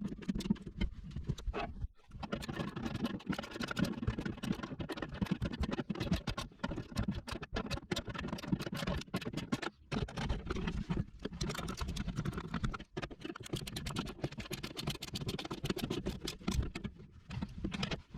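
Rapid, irregular clicking and rattling of metal hardware being handled and bolted up: bolts, washers and lock washers going in as the shelf is fastened.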